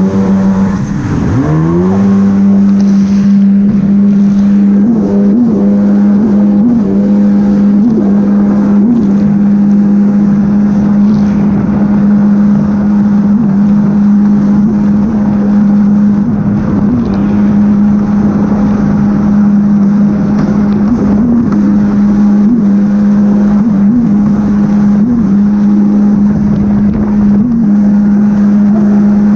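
Jet ski engine running at a steady high speed. About a second in, its pitch dips briefly as the throttle eases, then climbs back to a steady high pitch.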